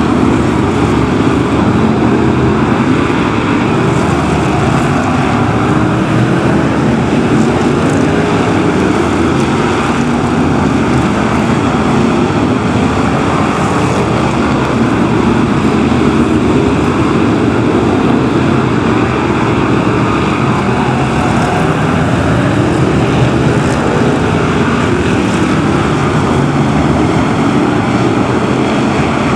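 BriSCA F1 stock cars' V8 engines racing round the oval, a loud, steady drone of several engines together with no let-up.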